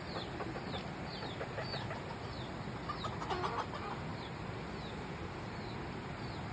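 Phoenix chicken chick peeping: short, high, falling peeps repeating about every half second. There are bursts of lower clucking calls about a second in and again around three seconds in.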